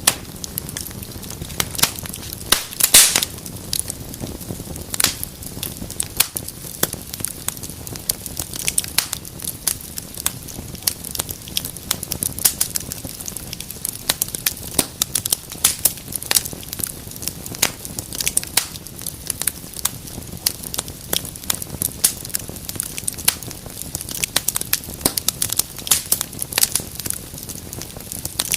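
Wood fire burning in a fireplace, crackling steadily with irregular sharp pops and snaps over a low rumble of flames. A louder burst of snapping comes about three seconds in.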